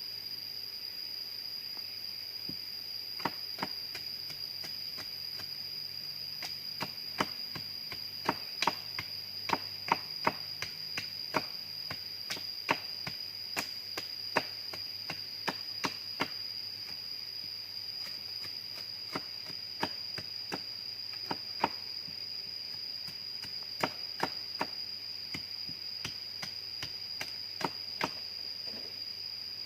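Irregular sharp chopping strokes of a blade, dozens of them, thickest in the middle stretch, over the steady high-pitched drone of jungle insects.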